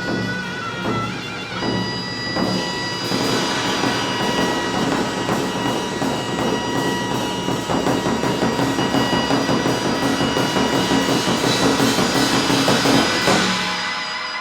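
Korean fusion percussion ensemble playing: dense, fast drumming under a wind instrument holding long, reedy notes. It builds steadily louder, then stops about a second before the end and rings away.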